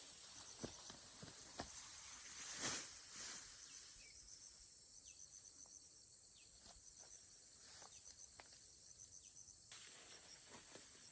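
Faint outdoor ambience of insects chirring steadily, with a run of short repeated high chirps in the middle and scattered soft clicks and rustles, the loudest a brief swish about three seconds in.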